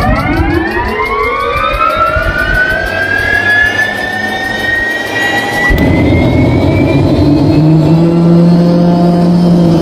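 MD500 helicopter's Allison 250 turboshaft engine starting. A whine rises in pitch and levels off as the engine spools up, with a rapid even ticking. About six seconds in the ticking stops and a louder, deeper rumble with a steady hum takes over as the engine lights off.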